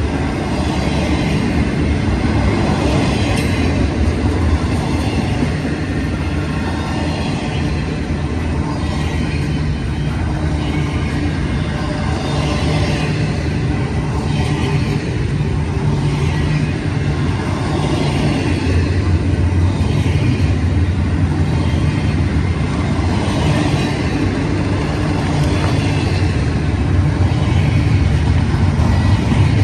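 Freight train rolling past: a steady, loud rumble of cars on the rails with a low engine drone underneath.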